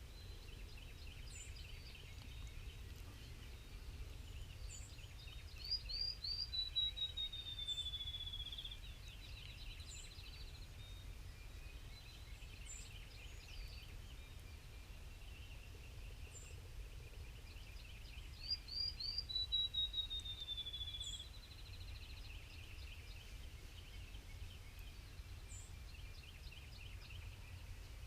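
Dawn birdsong: a songbird sings the same short song twice, about twelve seconds apart. Each song is three quick rising notes followed by a fast run of notes falling in pitch, over faint chatter from other birds and a steady low rumble.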